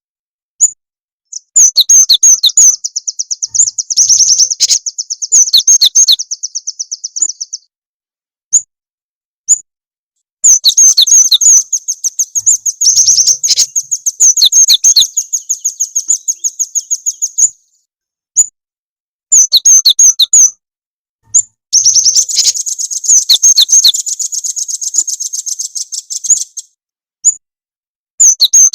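Small songbirds, cinereous tit (gelatik batu) and velvet-fronted nuthatch (rambatan), singing loud, rapid, high-pitched chirping trills. The trills come in runs of several seconds, with brief pauses broken by single chirps.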